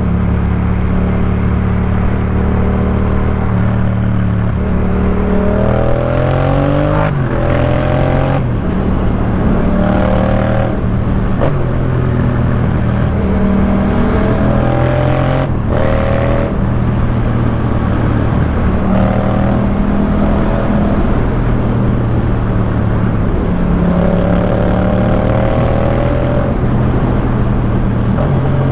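Yamaha MT-07's 689 cc parallel-twin engine through a Jeskap K4 full exhaust system, heard from the rider's seat while riding. The engine pitch climbs and drops several times as the bike accelerates through the gears, then settles to a steady run.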